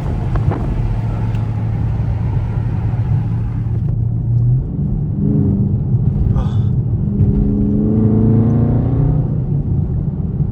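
Straight-piped Dodge Scat Pack's 6.4-litre HEMI V8 droning steadily, then revving up with rising pitch about five seconds in and again, longer, from about seven seconds.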